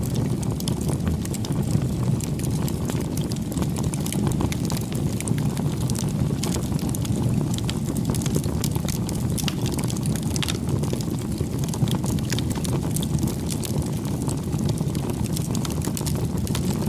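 Campfire burning: a steady low rush of flame with frequent small, irregular crackles and pops from the burning wood.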